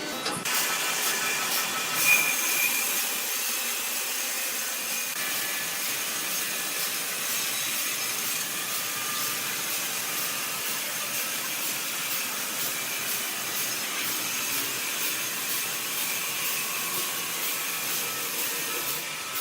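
Sawmill saw cutting through wood, a steady high-pitched hiss with a brief louder moment about two seconds in.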